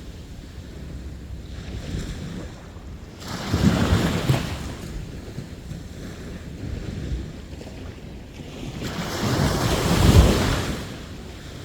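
Sea waves breaking on a beach. Two swells surge and crash, one about four seconds in and a louder one near ten seconds, with a steady wash of surf between them.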